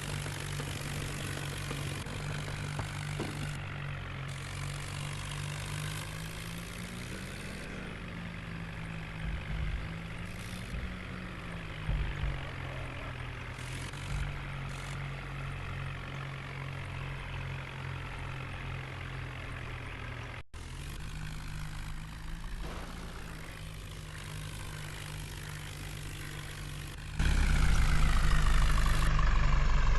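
Tractor diesel engine running at a steady idle. Its pitch rises and falls briefly twice, and it gets much louder about three seconds before the end.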